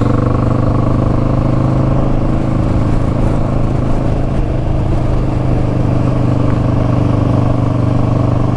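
Motorcycle engine running at a steady pace on the move, an even drone that holds the same pitch throughout.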